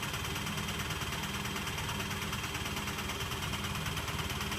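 Electrolux W455H commercial washing machine running with its drum turning, a steady mechanical hum with a fast, even pulsing.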